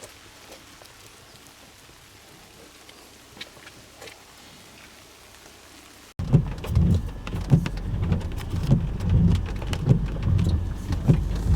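Typhoon rain: a faint hiss with scattered drops, then, about six seconds in, a sudden jump to loud, dense rain pattering with many sharp drop impacts and low thuds.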